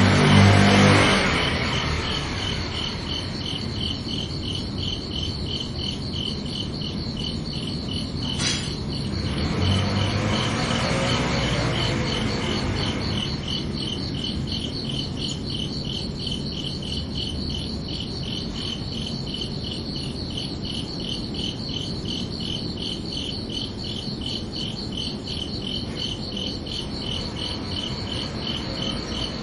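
Crickets chirping, a steady, rapid run of even pulses at two high pitches.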